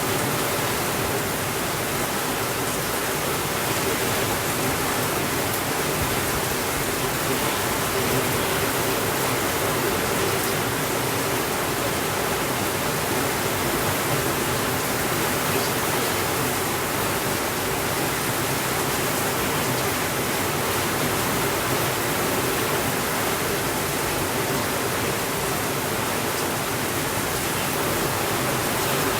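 Steady rainfall, an even hiss that does not rise or fall, with no thunder.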